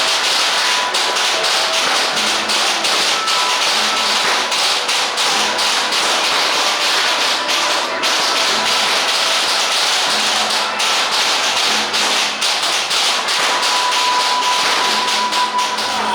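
Loud, dense, continuous clatter of many irregular sharp hits from a Taiwanese temple procession, with a thin steady tone near the end.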